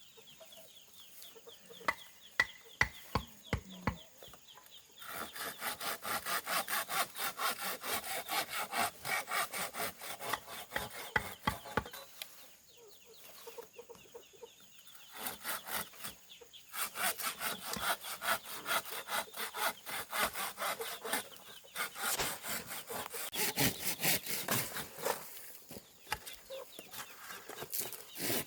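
Hand saw cutting bamboo with rapid, even back-and-forth strokes, in two long runs broken by a pause about twelve seconds in. A few sharp knocks come before the sawing starts, and chickens cluck in the background.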